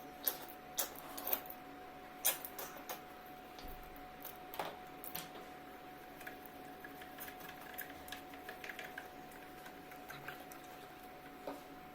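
Irregular small clicks and taps of utensils and containers being handled while making slime, over a faint steady tone.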